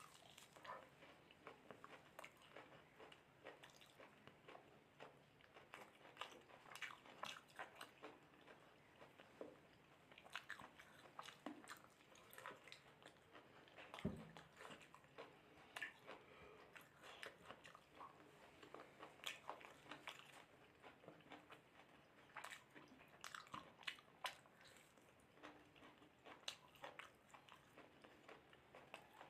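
Faint close-up eating sounds: chewing and biting on mutton curry and rice, as a run of many small wet mouth clicks. One louder knock comes about halfway through.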